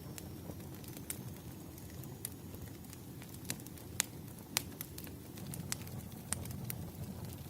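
Fireplace crackling: irregular sharp pops and snaps over a steady low rumble of burning logs, the loudest pops about four and four and a half seconds in.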